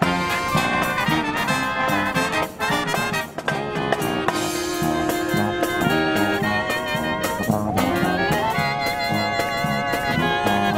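Marching brass band playing live: trumpets, trombones and saxophones over drums in a jazzy style.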